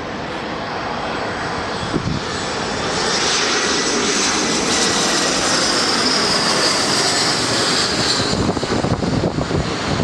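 Jet airliner's engines running loud just after landing, a steady roar with a high hiss that builds over a few seconds and eases near the end.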